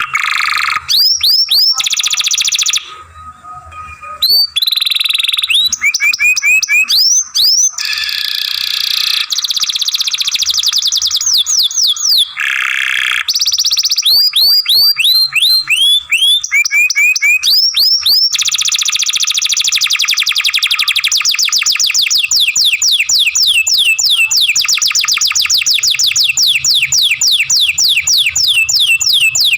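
Domestic canary singing: phrases of rapid trills and sweeping whistled notes, then a long fast roll of repeated down-slurred notes through the second half.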